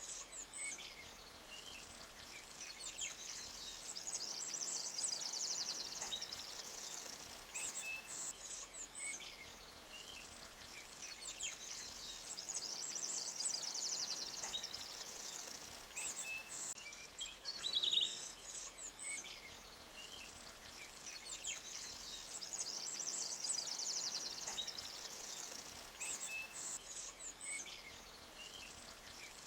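Forest birds chirping, with high trills that swell and fade every several seconds, over the faint steady rush of a small forest stream.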